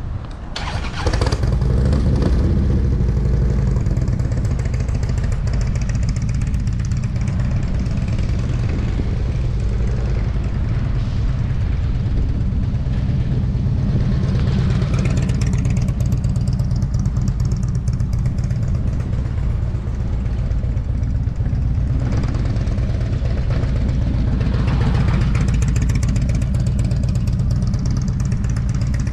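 Motorcycle engine running steadily at low revs, coming in loudly about a second in and holding an even note, with a couple of brief swells of rushing noise.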